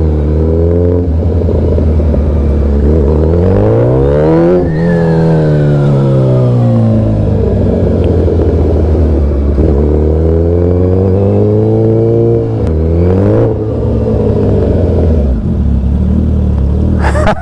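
Suzuki Hayabusa inline-four engine with an aftermarket Brock's Alien Head 2 exhaust accelerating on the open road. Its note rises in pitch twice under throttle and drops sharply each time, about five and thirteen seconds in. A brief burst of noise comes just before the end.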